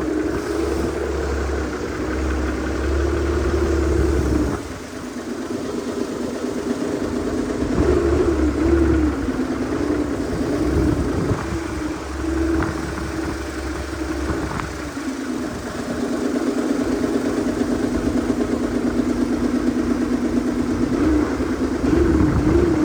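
An engine running, its speed rising and falling again and again.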